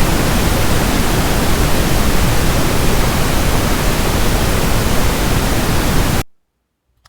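Steady generated noise playing from a white noise app, an even hiss strongest in the low end, cutting off abruptly about six seconds in.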